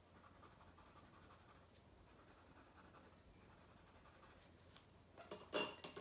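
Faint scratching of a coloured pencil shading on paper, with a couple of light clicks near the end.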